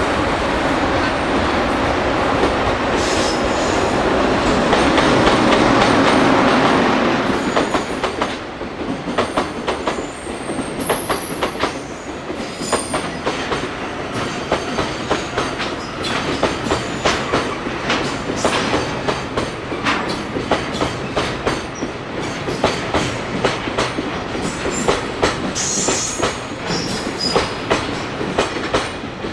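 A freight train of tank-container wagons passing close by. A loud, even rumble for about the first seven seconds gives way to a rapid, continuous clatter of wheels clicking over rail joints, with a few brief high wheel squeals.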